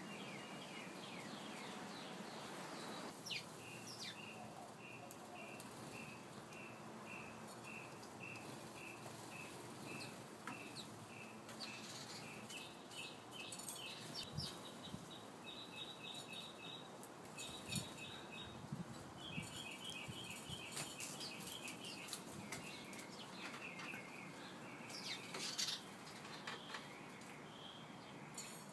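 Small birds calling: a steady series of short chirps, about two a second, then quicker clusters of higher twittering notes, with scattered sharp clicks.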